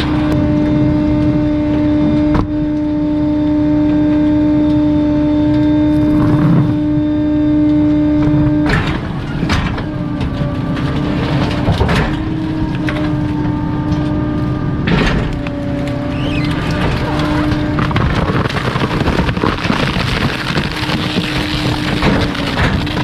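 Garbage truck's hydraulic compactor running with a steady hum, broken by sharp cracks now and then and, over the second half, dense crackling and snapping as bulky waste is crushed.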